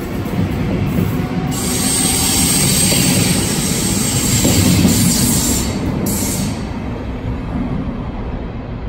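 SBB double-deck S-Bahn train running past along the platform: a steady rumble of wheels on rail with a loud hissing rush about a second and a half in that lasts some five seconds, then fades as the last car goes by.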